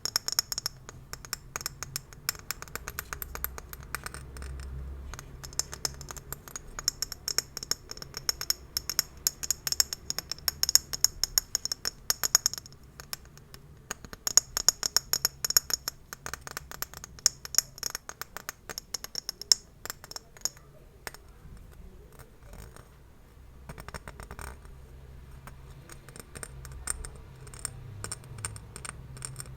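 Gift bows being handled and scratched, a dense run of small crinkling crackles and scratches with a few quieter lulls.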